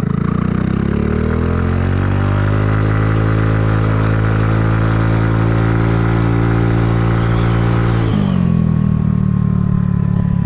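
Kymco People 250 scooter's single-cylinder four-stroke engine under way, its exhaust leaks sealed with high-heat epoxy. The engine note climbs in pitch over the first two seconds as it accelerates, holds steady, then drops suddenly about eight seconds in as the throttle is rolled off.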